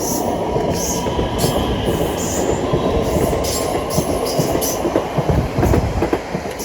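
Class 720 Aventra electric multiple unit passing through the station without stopping: a loud rumble of wheels on rail, a faint steady whine and irregular knocks from the wheels on the track, loudest a few seconds in.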